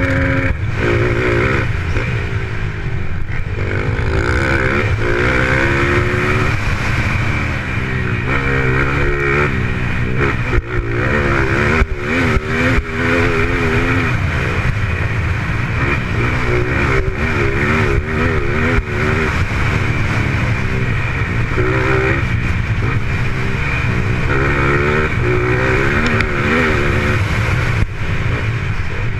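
Motorcycle engines racing on a dirt track, revving up and down over and over as the riders work the throttle and gears.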